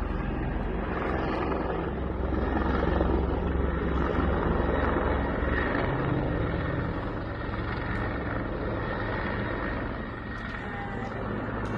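Bell 412 twin-turbine helicopter flying, its rotor and turbines making a steady, loud drone with a low rotor beat. The sound eases a little about ten seconds in.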